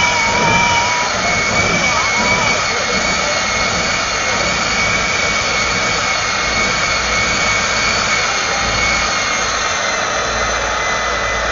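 Jet engine of the Kenworth jet truck running steadily with a high whine over a rushing noise, its pitch easing slightly lower near the end.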